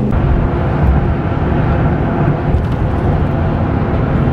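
A vehicle driving along the road: a steady low rumble of engine and road noise.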